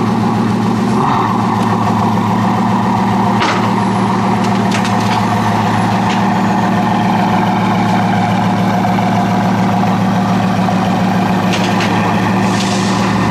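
Steady road and tyre drone inside a Tesla's cabin while driving, with a few faint clicks.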